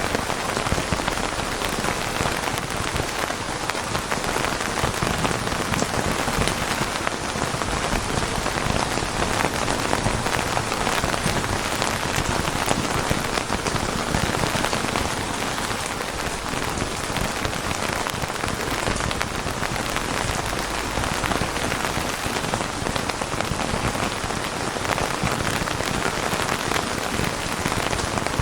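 Steady, heavy rain falling on a surface: a dense, even patter of drops.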